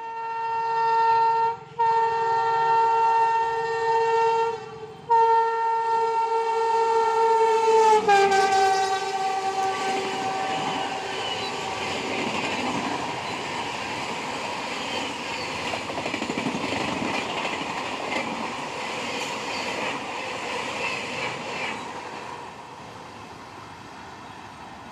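Locomotive horn of an express train running through at speed, sounded in three long blasts, its pitch dropping as the locomotive passes about eight seconds in. Then the rush and clatter of the coaches going by fast, fading near the end.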